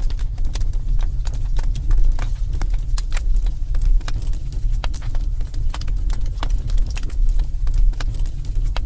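Wood fire burning in a fireplace: a steady low rumble of the flames under irregular sharp crackles and pops.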